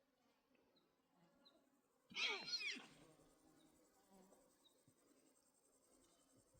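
A single animal call, under a second long, about two seconds in; quiet before and after it.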